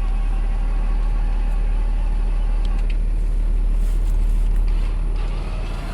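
A vehicle engine running steadily with a strong low rumble.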